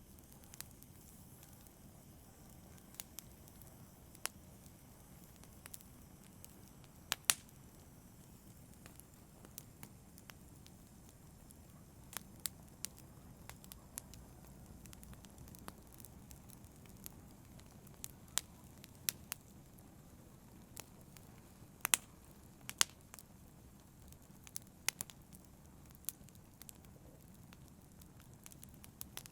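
Campfire burning: a steady low rumble of flame with irregular sharp crackles and pops from the burning wood, a few of them louder than the rest.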